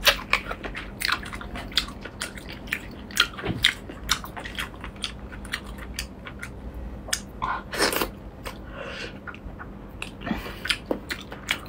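Close-up mouth sounds of eating a whole octopus: wet biting and chewing with many short, irregular smacking clicks, and a longer slurp about eight seconds in.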